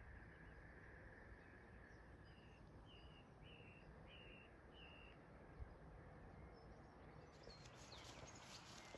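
Faint evening outdoor ambience with a bird calling a run of six short, high notes about twice a second. Near the end come quicker, higher chirps.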